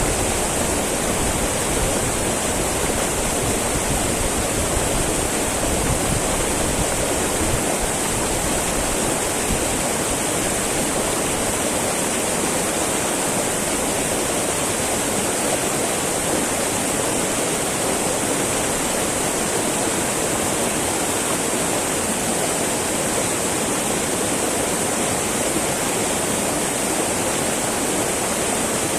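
Small mountain river babbling and rushing over rocks, a steady, even flow of water with no breaks.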